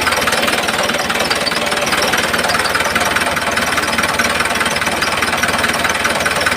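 Small motor of a DIY mini tractor running steadily, with a dense, even buzzing rattle.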